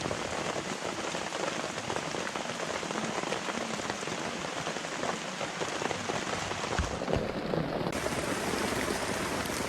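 Light rain falling steadily, with many small drop ticks pattering on a surface, and a couple of soft low knocks about seven seconds in.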